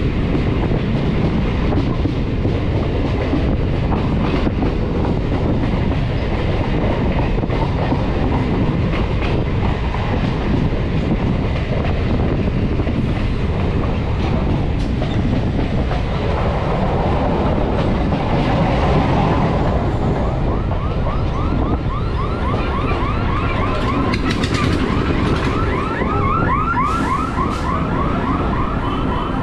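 Electric multiple unit (EMU) local train running, with steady wheel-and-track rumble. About two-thirds of the way through, a rapidly pulsing squeal sets in and grows stronger as the train slows into a station.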